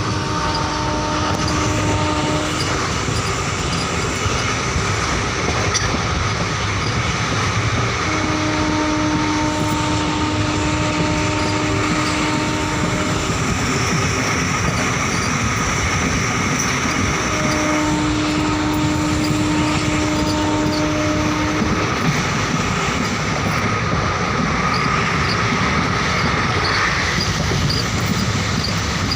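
Passenger train running at speed on the track: a steady rolling rumble of the coach's wheels on the rails. A steady humming tone comes and goes three times.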